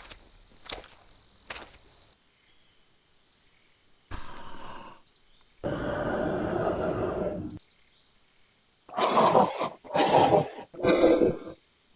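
Wild animal roars and growls. After a few sharp clicks early, there is a short growl about four seconds in, a long roar lasting about two seconds in the middle, and three short, loud snarls near the end.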